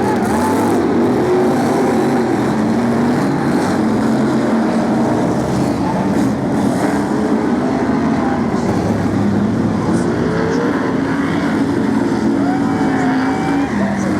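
Several BriSCA F1 stock cars' V8 engines running hard together around the oval, their pitches rising and falling as the cars accelerate and back off through the laps.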